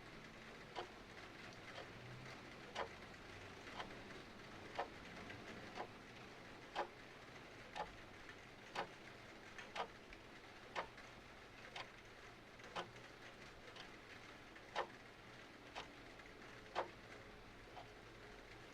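Clock ticking steadily about once a second over a faint, even hiss of rain.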